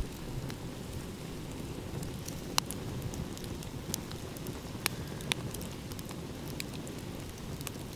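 Wood fire crackling, with scattered sharp pops and snaps over a steady low rumble of ocean waves.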